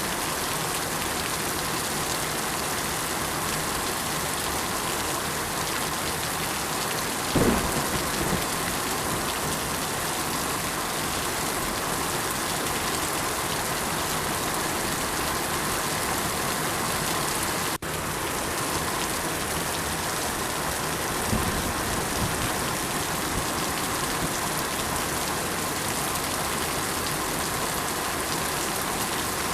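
Steady rain with rolls of thunder: a loud rumble about seven seconds in and a softer one about twenty-one seconds in.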